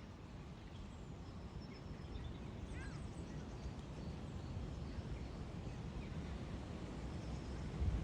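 Outdoor ambience: a steady low wind rumble on the microphone with faint, brief bird chirps, including a quick series of chirps about three seconds in.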